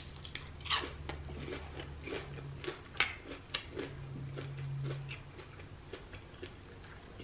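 Close-up chewing of crunchy deep-fried battered seafood: irregular crisp crunches and wet mouth clicks as the fried shrimp and crab are bitten and chewed. A low closed-mouth hum comes in twice, the longer one about four seconds in.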